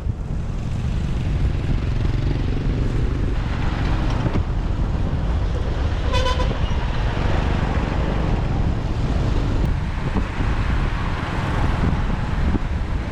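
Road noise and wind from a motorbike riding in city traffic, a steady low rumble throughout, with a short vehicle horn toot about six seconds in.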